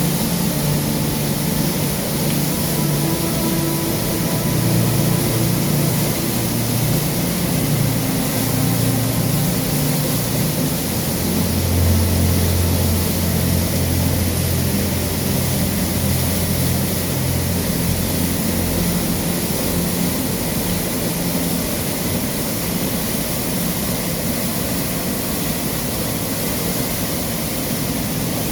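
Steady rushing of flowing water, like a stream or small waterfall, with a low rumble underneath that swells for a stretch midway.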